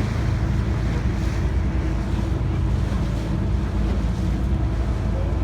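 Cruise boat's engine running steadily under way, a low even hum, with wind on the microphone and water rushing past the hull.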